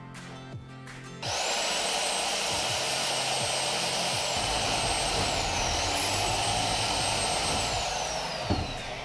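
Electric hand power tool starting about a second in, running with a high whine and harsh hiss. The pitch dips briefly once as it is loaded, and it winds down near the end.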